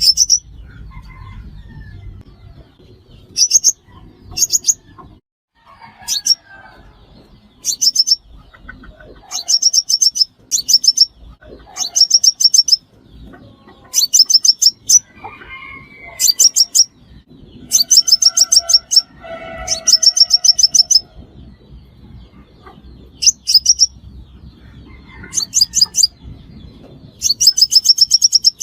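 Sunbird calls: loud bursts of rapid, very high-pitched chips, each lasting about a second and repeated every one to two seconds, with fainter, lower bird calls underneath.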